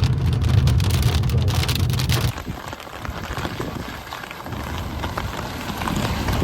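Heavy rain falling, a dense steady hiss. A deep rumble sits under it for the first two seconds or so, then stops abruptly.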